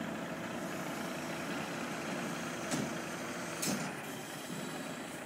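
Scania truck engine running steadily, with two brief hisses of air about a second apart.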